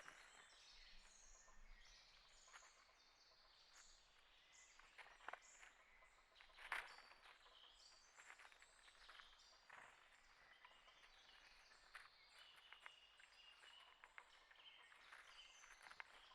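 Faint chirps and short calls of small birds, with scattered sharp ticks and taps; the loudest is a tap about 7 seconds in.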